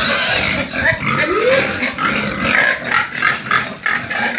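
Pigs in a pen squealing, high-pitched and loud, with a quick run of short squeals in the second half.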